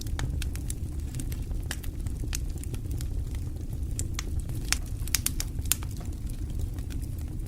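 Wood fire crackling in a fireplace: irregular sharp pops and snaps, a few louder than the rest around the middle, over a steady low rumble of flames.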